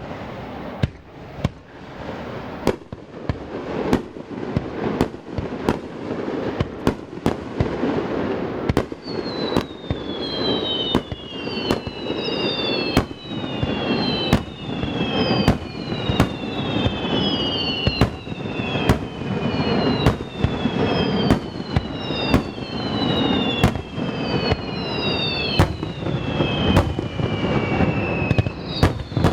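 Fireworks display: a rapid, continuous string of sharp shell bursts and bangs echoing off surrounding mountains. From about a third of the way in, whistles that fall in pitch join the bursts, roughly one a second.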